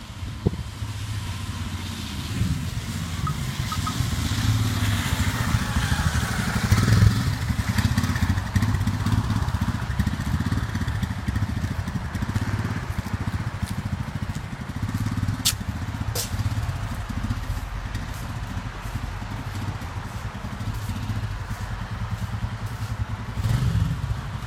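An engine running steadily with a pulsing low rumble, then stopping at the end; two sharp clicks about two-thirds of the way through.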